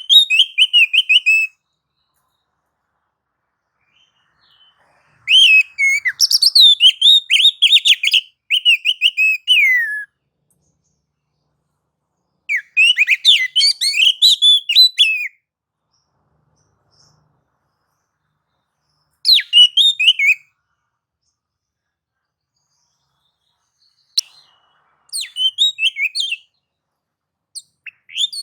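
Oriental magpie-robin singing in bursts of rapid, varied whistled phrases, about six bursts with silent gaps of a few seconds between them. It is the agitated 'nagan' and 'ngobra' song that keepers play to provoke other magpie-robins into singing.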